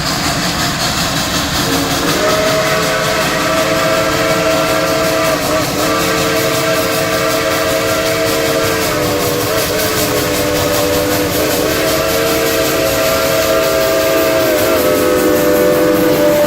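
Texas State Railroad Engine 28, a steam locomotive, sounding its chime whistle over a steady hiss of steam. The whistle starts about two seconds in and is held long, dipping briefly three or four times before sounding again.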